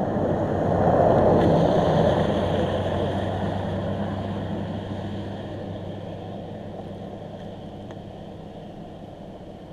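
A vehicle passing on the road: its noise swells quickly to a peak in the first two seconds, then slowly fades away.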